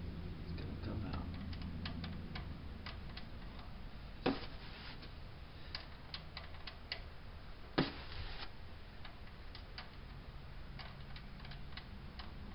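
Scattered metallic clicks and ticks from tools working at a stuck, long-unchanged oil filter, with two sharper knocks about four and eight seconds in.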